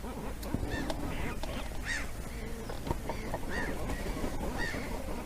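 Cormorants calling: a run of short calls that rise and fall in pitch, a few every second, over a background of many overlapping calls.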